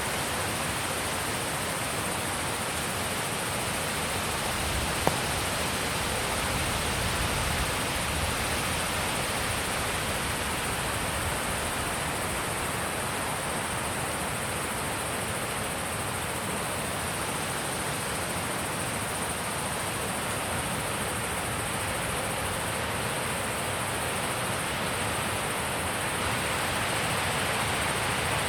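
Steady wind blowing, an even rushing noise with a single faint click about five seconds in.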